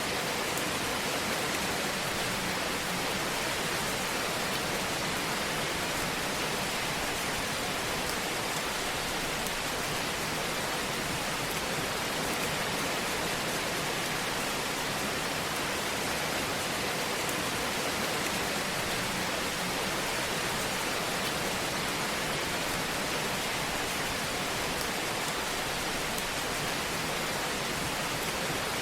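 Fire crackling in a fireplace: a dense, steady hiss of fine crackles with an occasional faint pop.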